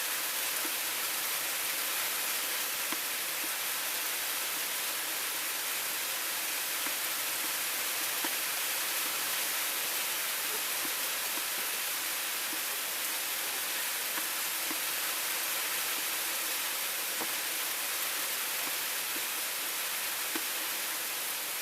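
Heavy rain falling steadily, a constant hiss, with a few faint scattered taps.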